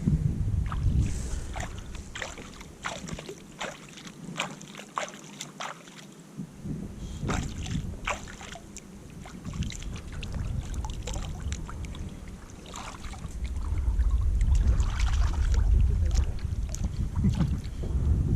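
Kayak paddling: the paddle blades splash and drip water in many short irregular bursts. Wind rumbles on the microphone, getting stronger about two-thirds of the way in.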